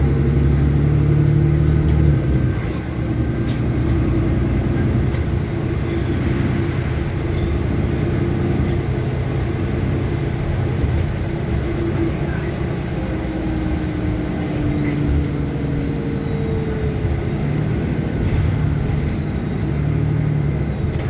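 City bus engine running with steady road noise, heard from inside the bus. The engine's pitch slides gradually around the middle as the bus changes speed.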